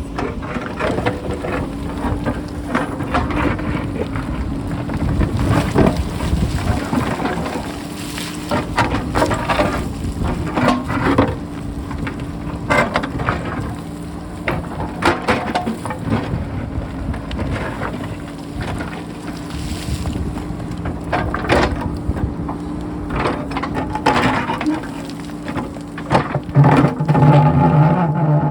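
JCB backhoe loader's diesel engine running steadily as it digs a rocky hillside, with rocks clattering and rolling in many irregular knocks. Wind buffets the microphone, and the engine note grows louder near the end.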